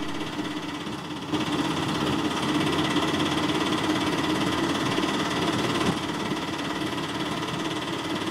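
Bajaj RE auto-rickshaw engine running steadily as the rickshaw drives up and stops alongside, growing louder about a second in.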